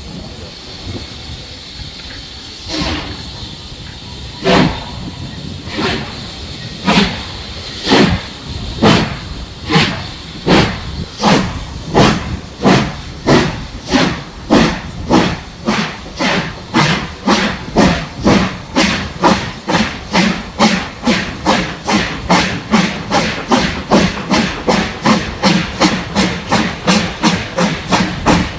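BR Standard Class 4 4-6-0 steam locomotive 75014 starting away: its exhaust chuffs begin slowly about three seconds in and quicken steadily to about three beats a second as the train gathers speed, over a steam hiss.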